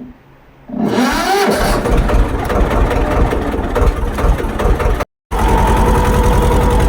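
Swaraj tractor's diesel engine starting about a second in, then running steadily with a regular low chugging beat. The sound drops out completely for a moment about five seconds in and the engine is running again right after.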